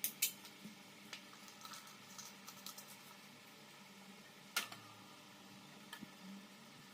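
Scattered small clicks and knocks of desk fan parts being handled, the sharpest two right at the start and another about four and a half seconds in, over a faint steady hum.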